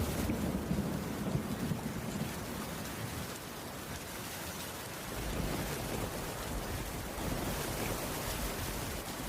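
Heavy rain falling steadily as an even hiss, with a low rumble under it that is strong for the first couple of seconds and swells again from about halfway through.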